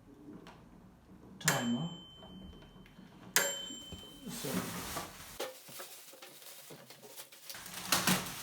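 Two dings from the bell of a manual microwave's clockwork timer dial, the first about a second and a half in and the second about two seconds later, each ringing on briefly. Rustling handling noise follows in the second half.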